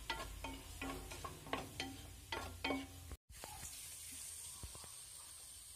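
A spatula stirring chopped onions in a nonstick pan, scraping and knocking against the pan about eight times in the first three seconds. After a brief break, the onions fry in oil with a faint steady sizzle.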